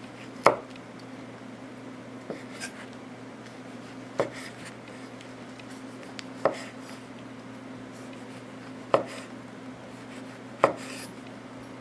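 Knife cutting through roasted sweet potato and knocking on a cutting board, five sharp knocks about two seconds apart, with softer scraping sounds between them.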